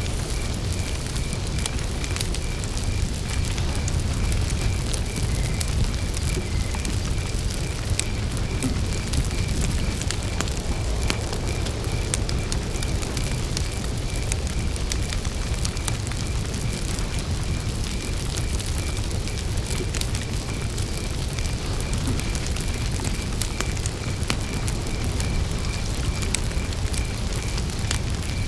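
Campfire burning: a steady low rumble of flames with scattered sharp crackles and pops of burning wood. A cricket chirps steadily at an even pace throughout.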